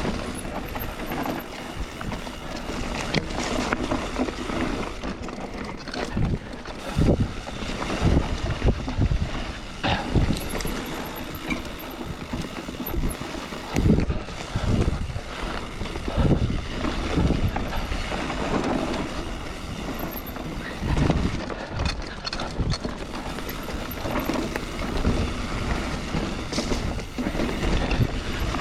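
Mountain bike riding over rough trail: wind buffeting the microphone and tyre rumble, broken by frequent irregular knocks and rattles as the bike hits bumps.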